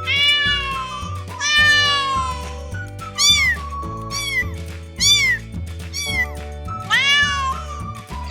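A cat meowing repeatedly, about six meows in a row, some drawn out and some short and higher-pitched, over background music with steady low notes.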